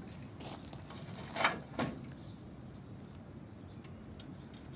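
A few light metal clicks from the tractor's drawbar pin being put back in place, the sharpest clink about a second and a half in, followed by faint handling ticks.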